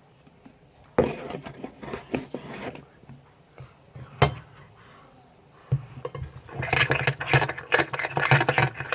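Glue and water being stirred for slime, the stirring utensil scraping and clinking against the container. It comes in two spells: a short one starting sharply about a second in, and a longer, busier one from about six seconds in, with a single sharp knock in between.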